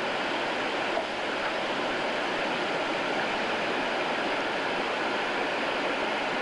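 Whitewater rushing steadily in a mountain river.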